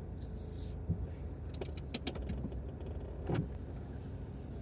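Campervan engine running steadily at idle, with a few sharp clicks about halfway through and again near the end.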